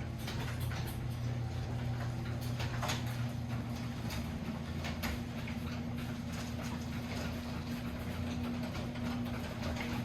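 Overhead Door Legacy garage door opener running, raising a wooden sectional garage door along its one-piece rail: a steady, quiet motor hum with a few light clicks and rattles.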